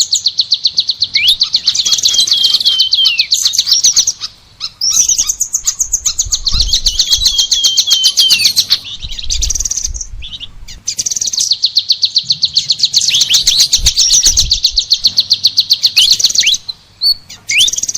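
Songbird singing in long, fast, high-pitched trills a few seconds each, broken by short gaps, with thin downward-sliding whistled notes mixed in.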